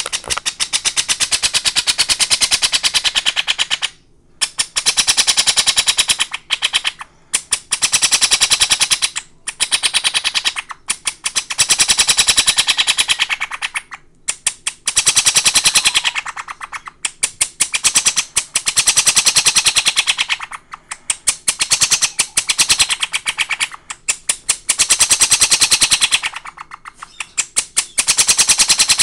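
Princess of Wales parrot chick giving a rapid, stuttering begging call during syringe feeding. The call comes in bouts of about two to three seconds with short pauses between them.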